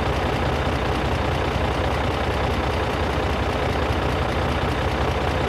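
Tractor-style engine idling steadily, a fast even chugging that holds the same speed throughout.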